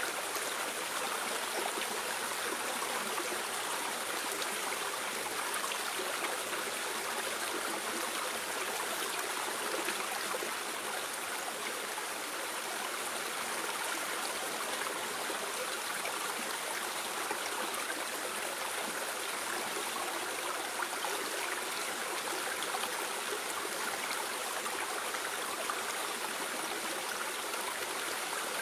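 Flowing water of a stream, a steady even rush that does not change.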